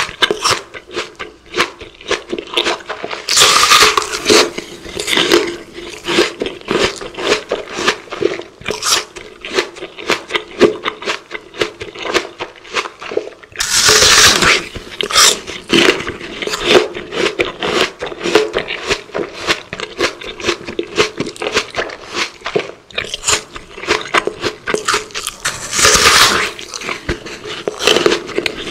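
Close-miked crunchy eating sounds, mukbang-style: three big crisp bites, about four, fourteen and twenty-six seconds in, with continuous crackly chewing between them.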